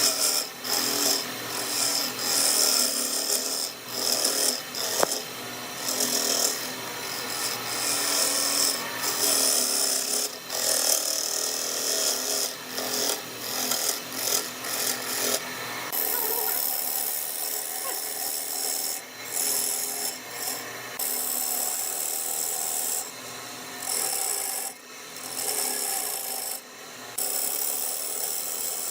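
Wood lathe turning a workpiece while a tool cuts and scrapes the spinning wood, a hissing scrape that breaks off and resumes every second or so over a faint motor hum; the scraping grows steadier about halfway through.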